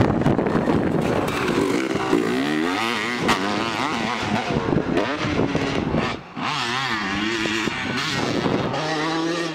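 Dirt bike engine revving up and down as it is ridden around a motocross track, its pitch rising and falling with the throttle, with a short drop-off about six seconds in.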